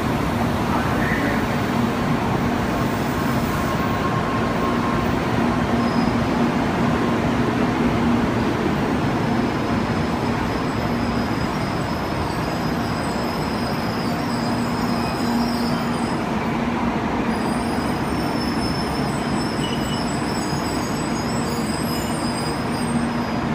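N700-series Shinkansen pulling out of the platform, its cars rolling past with a steady noise, a low hum, and a thin high whine that comes in about five seconds in.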